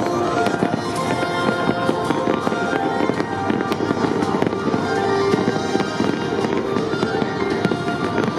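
Fireworks popping and crackling densely and without pause, with music playing alongside.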